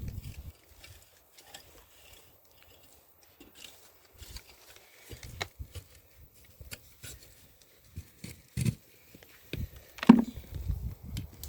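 Garden work in soil and plants: scattered soft knocks, rustles and thuds, with one louder thud about ten seconds in.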